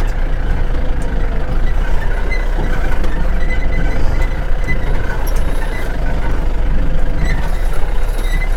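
Safari vehicle's engine running with a steady low rumble as it drives along a rough track, heard from aboard.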